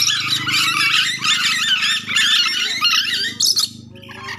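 A flock of nuri dora lorikeets chattering and screeching rapidly, a dense, continuous din of overlapping shrill calls that thins out about three and a half seconds in.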